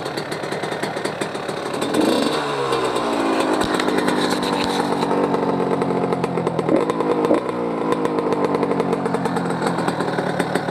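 1997 Yamaha YZ125's two-stroke single-cylinder engine running just after its first start on a newly rebuilt top end (new cylinder). It is revved briefly about two seconds in, the pitch falling back to a steady run, with two short throttle blips around seven seconds in.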